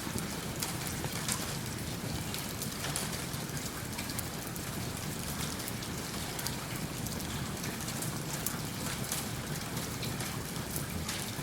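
Steady rain falling, with the faint crackle of a wood fire in a fireplace among the patter.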